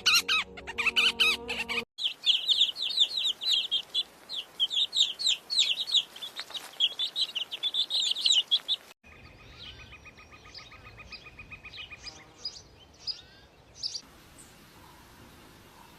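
Small bird chirping in rapid, high twittering notes for several seconds; after a sudden cut, fainter chirps and a fast, even buzzy trill.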